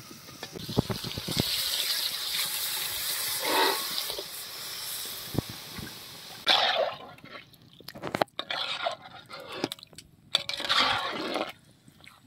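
Country chicken pieces sizzling as they fry in masala in a pot. About six and a half seconds in, this gives way to the softer sloshing of a ladle stirring a thin curry gravy, with scattered knocks.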